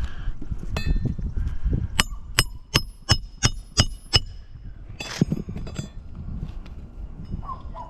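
About seven quick metallic strikes, roughly three a second, each leaving a brief high ring, like a hammer hitting metal during roofing work. One heavier knock follows about five seconds in.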